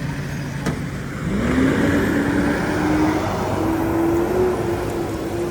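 A motor vehicle's engine in street traffic pulls away, its pitch climbing about a second in and then holding higher as it accelerates, over a steady traffic rumble.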